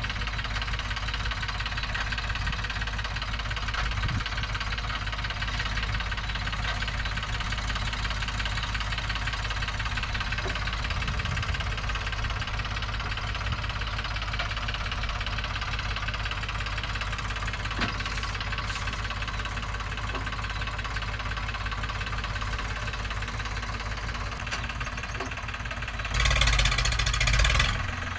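Diesel engine of heavy loading machinery running steadily, getting louder briefly near the end.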